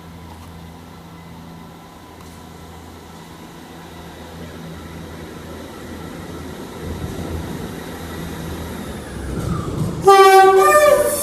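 Class 158 diesel multiple unit's engines throbbing low and growing louder as it pulls away, then about ten seconds in a loud blast on its two-tone horn.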